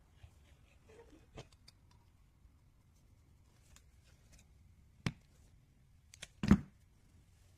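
A few scattered clicks and knocks of hard objects: a sharp knock about five seconds in, and the loudest, a quick cluster ending in a heavier knock, about six and a half seconds in.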